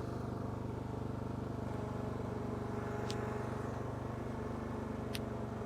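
Small lawn mower engine running steadily at an even speed, with two faint short ticks about three and five seconds in.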